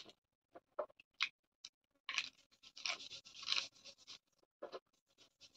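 Close-up mukbang eating sounds from pork eaten by hand: a few sharp wet clicks and smacks, then from about two seconds in a dense crackly stretch of biting and chewing lasting about two seconds, then a few more clicks.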